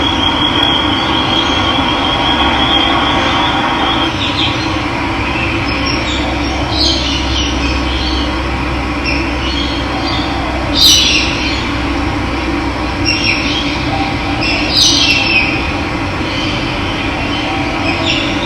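Steady rush of running water with wild birds calling over it: a thin high trill for the first few seconds, then short chirping calls every couple of seconds, the loudest about eleven seconds in.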